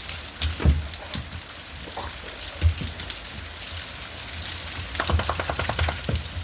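Rain and hail storm: steady rain with many scattered sharp hits, a couple of louder dull thumps, and a quick run of hits about five seconds in.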